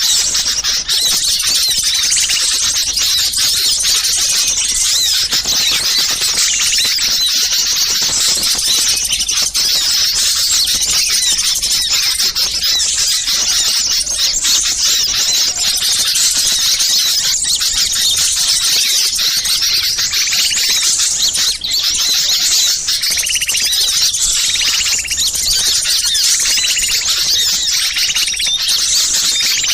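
Many small songbirds calling at once in a dense, noisy, agitated chatter of short high-pitched calls that overlap without a break. This is a bird-lure recording of small birds in an uproar, played to draw wild birds in.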